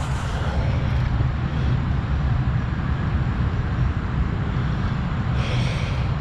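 An engine running steadily with a low rumble, and a short hiss near the end.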